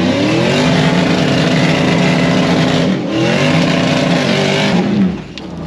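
Off-road vehicle engine revving hard under load: it climbs in pitch and holds high, dips briefly about three seconds in, climbs again, then backs off near the end.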